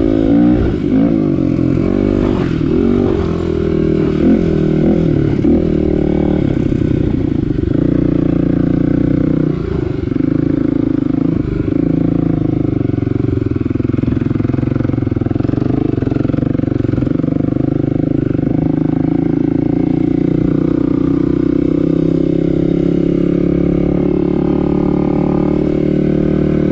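Kawasaki KLX250 dual-sport motorcycle's single-cylinder four-stroke engine running under way, its revs rising and falling through the first half, then holding steadier and climbing slowly near the end.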